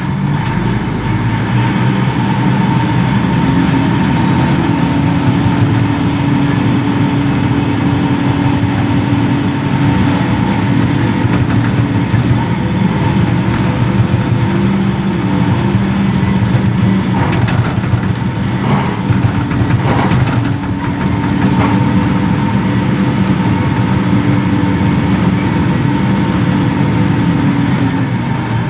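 Heavy-machine diesel engine running steadily, most likely the reach stacker's, with a thin steady whine above it. The engine note rises a few seconds in, dips briefly past the middle with a few short knocks, then steadies again.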